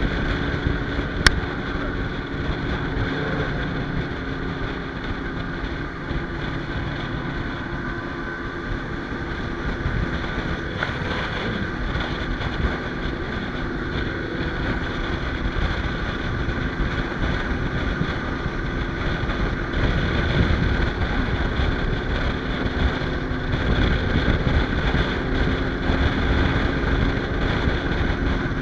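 Motorcycle engine running steadily at cruising speed, with wind rushing over the microphone. A single sharp click about a second in.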